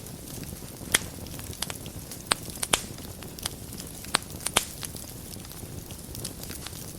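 Wood fire burning in a fireplace: a steady low rumble and hiss with sharp, irregular crackles and pops, the loudest about a second in and a cluster in the middle, quieter near the end.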